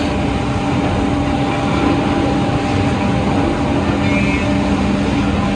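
Woodmaster WM-2800-S2R4 heavy-duty two-way boring and milling machine for solid wood running: a loud, steady motor hum over a constant dense machine noise.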